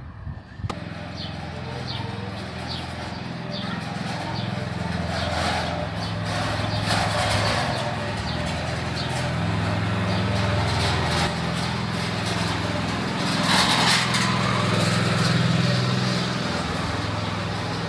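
A small motor running steadily, growing louder over the first several seconds.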